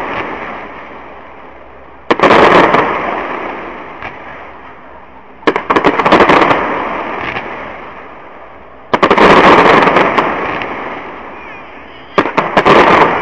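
Aerial fireworks shells bursting in four volleys about three seconds apart, each a quick cluster of sharp bangs followed by a fading rumble.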